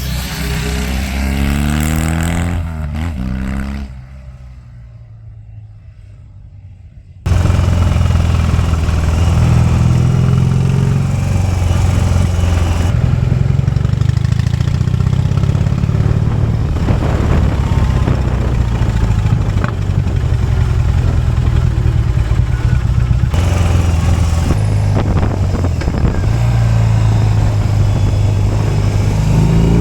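BMW R18's boxer-twin engine through its modified loud fishtail exhaust while riding: revs rising and falling at first, a quieter few seconds, then the engine cuts in much louder about seven seconds in and runs on steadily, its pitch stepping up and down.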